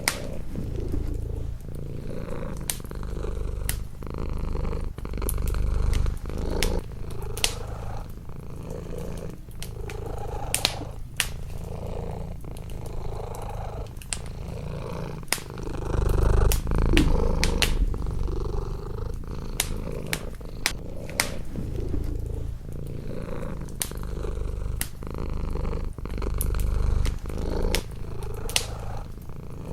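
A domestic cat purring close up, a low rhythmic rumble that swells and eases with each breath, over a wood fire crackling with frequent sharp pops.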